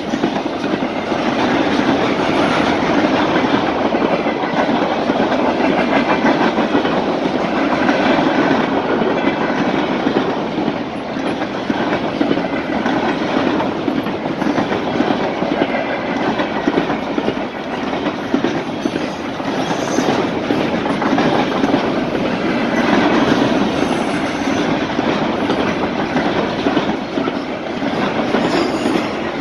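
Freight train cars rolling past at steady speed, wheels clicking over the rail joints under a continuous rumble.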